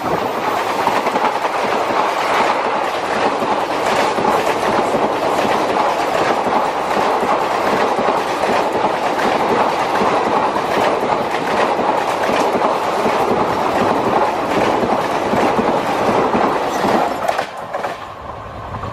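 Passenger coaches of an express train rushing past at speed, their wheels clattering in quick succession over the rail joints. The rush dies away near the end as the last coach goes by.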